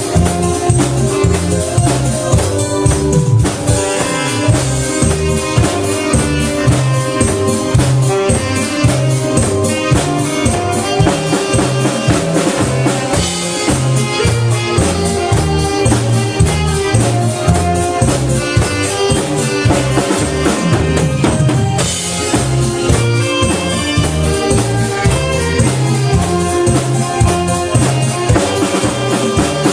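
Saxophone and drum kit playing an upbeat song, the drums keeping a steady beat under a sustained melody.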